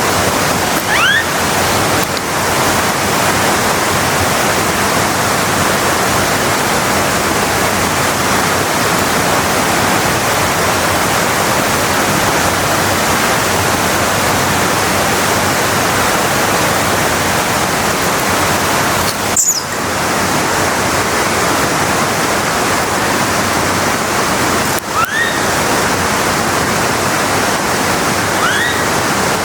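Steady rush of a large waterfall. A few short rising calls sound over it, near the start, about two-thirds of the way through and near the end.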